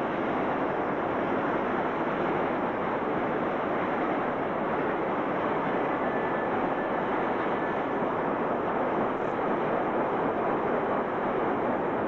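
Steady rushing noise of a freight train running by on the rails, with no distinct engine note and no knocks or breaks.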